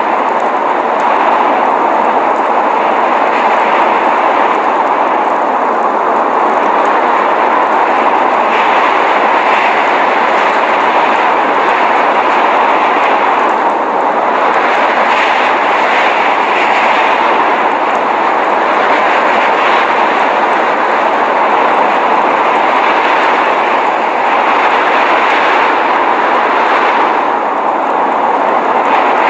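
Blizzard wind noise: a steady, unbroken rush.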